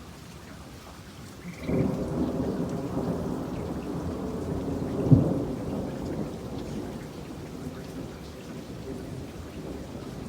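Steady rain with a thunderclap: a low rumble breaks in suddenly about two seconds in and peaks in a sharp crack around the middle. It then rolls off slowly under the rain.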